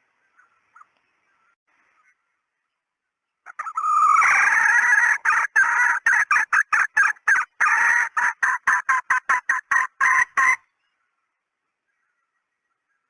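Junglefowl hen calling, used as a hunter's lure call: a few faint soft clucks, then from about three and a half seconds in a loud, rapid run of clucks at about four a second, which stops abruptly after some seven seconds.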